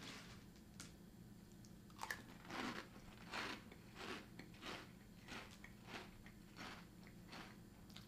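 A person chewing a mouthful of dry Froot Loops cereal: a faint crunch repeating about every two-thirds of a second, starting about two seconds in.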